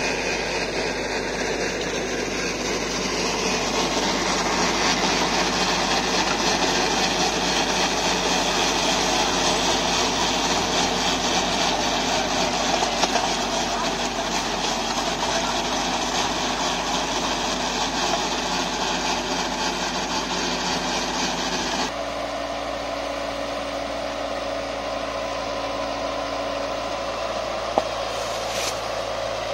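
Sonalika tractor engine running steadily under load, pulling a rotavator through wet field soil. The sound changes abruptly about three quarters of the way through, becoming slightly quieter with a steadier hum.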